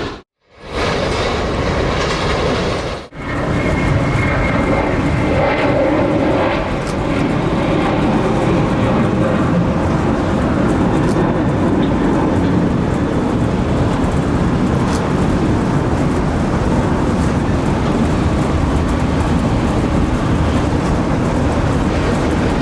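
Jet airliner engine noise, loud and steady, broken by two abrupt cuts in the first three seconds.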